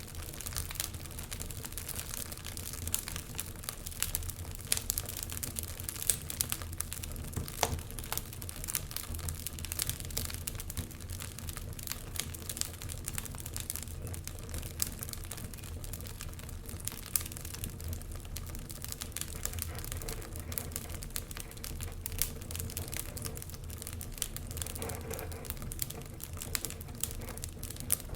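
Fire burning in a fireplace, crackling steadily with many small sharp snaps and an occasional louder pop, over a low steady rumble of the flames.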